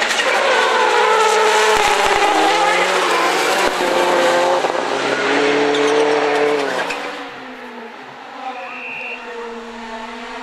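Rally car driven hard, its engine note climbing and dropping back several times with gear changes, with a few sharp pops. It is loud for about seven seconds, then fades as it pulls away, the engine still audible more faintly.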